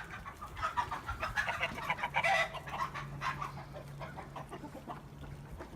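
Chickens clucking: many short, soft calls overlapping, with a faint steady low hum underneath.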